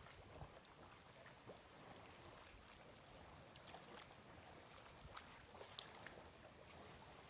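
Near silence: faint outdoor ambience with a few faint, scattered ticks.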